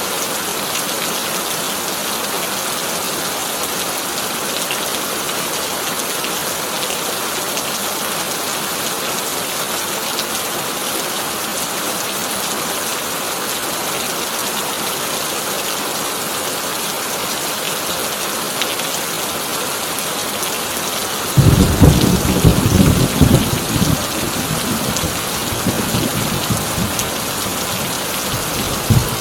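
Heavy rain drumming steadily on a corrugated tin roof. About two-thirds of the way in, a sudden loud clap of thunder breaks in and rolls on in rumbling pulses for several seconds before fading, with one more short rumble near the end.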